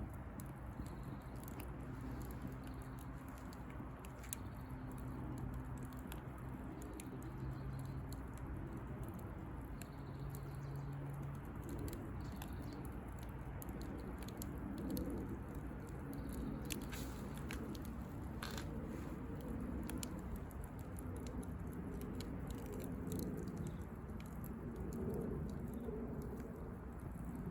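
Bonfire of dry branches crackling, with irregular sharp pops and snaps over a steady low rush of burning.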